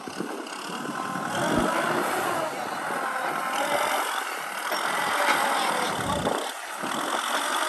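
Kubota M6040 tractor's diesel engine running under working load, its pitch drifting up and down.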